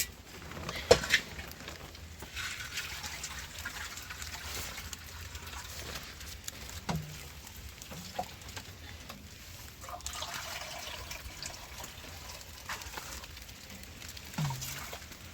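Water pouring and trickling in two stretches, after a sharp clatter about a second in.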